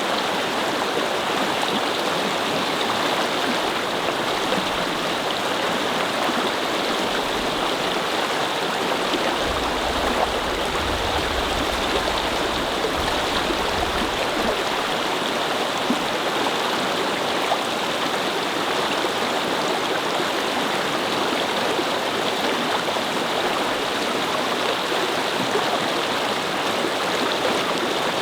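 A babbling brook flowing steadily over stones, a continuous rushing and burbling of water. About ten seconds in, a low rumble rises under it for a few seconds and then fades.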